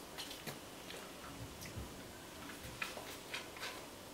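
Faint mouth sounds of children eating apple: soft chewing with a few small clicks and smacks scattered through.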